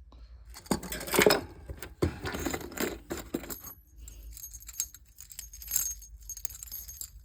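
Budgie toys being handled, their small metal bells jingling and clinking among rattles and rustling, with a few high ringing notes in the second half.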